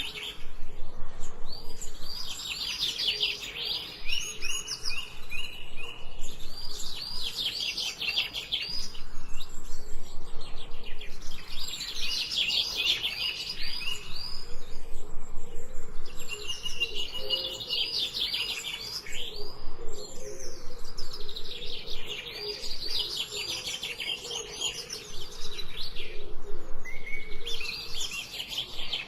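Songbird singing: phrases of rapid, high chirping notes, each lasting two to three seconds and repeated about every five seconds.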